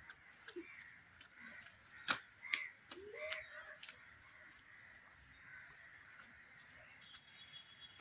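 A few short bird calls over a faint steady background, with scattered sharp clicks; the loudest click comes about two seconds in.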